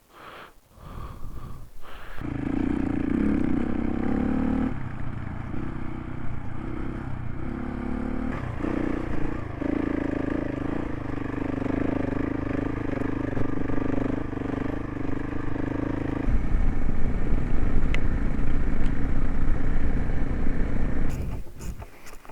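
Single-cylinder adventure motorcycle engine running under way while riding, its note stepping up and down a few times with throttle and gear changes. A rougher, louder rumble from about two-thirds of the way in.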